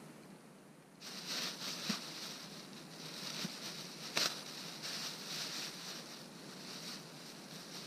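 Snow crunching and swishing under someone moving through it. It starts about a second in, with one sharper knock about four seconds in.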